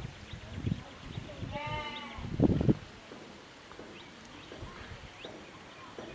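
A farm animal bleats once, a wavering call about one and a half seconds in, followed by a short louder noise; faint high chirps run underneath.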